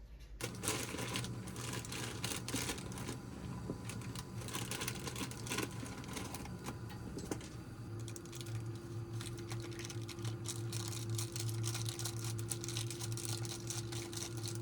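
Rapid, irregular clicking and rustling, like typing or handling packaging, over a steady low hum. A second steady tone joins about halfway through.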